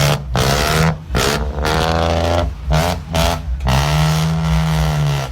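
Truck engine revved in a run of short loud bursts, each cut off sharply, with a longer held burst near the end.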